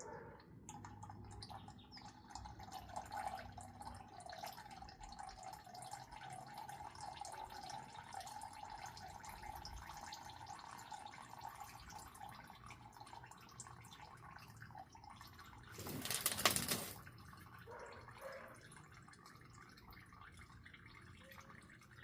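Engine oil from a 2020 Ford F350's 8-quart pan draining in a steady stream into a catch pan, the flow fading toward dripping. About sixteen seconds in there is a brief, louder noisy rush lasting about a second.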